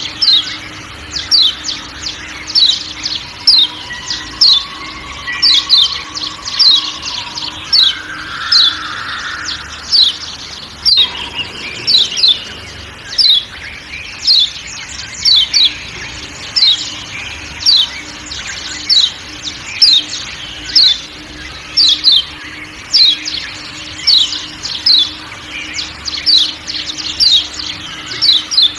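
Kecial kuning (Lombok white-eye) giving rapid, repeated sharp 'ciak ciak' calls, each a short falling chirp, about two to three a second, over faint forest background sound.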